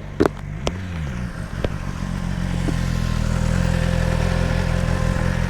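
Motorcycle engine idling, getting louder about two seconds in, with a few sharp clicks and clunks in the first couple of seconds.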